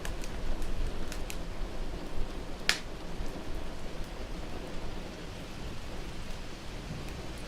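Wood fire crackling in a fireplace, with a few sharp pops and the loudest one about two and a half seconds in, over a steady low rush of rain.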